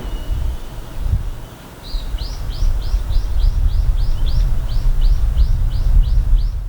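A bird calling a fast, even series of short, high, down-slurred notes, about three or four a second, starting about two seconds in, over a steady low rumble.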